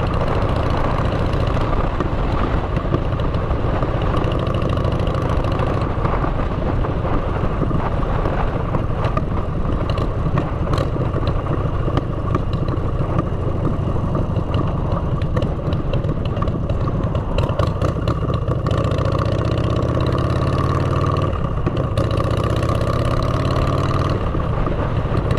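Motorcycle with aftermarket exhaust pipes running on the road, its engine note climbing several times in the last several seconds.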